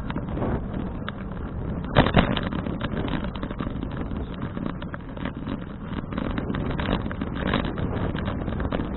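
Wind rushing over an action camera's microphone while riding a bicycle, with steady road rumble and many small knocks and rattles from the ride. A louder bump comes about two seconds in.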